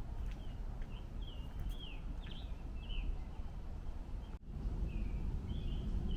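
A songbird calling in a quick series of short, high chirping notes over a steady low rumble. The sound drops out briefly about four seconds in.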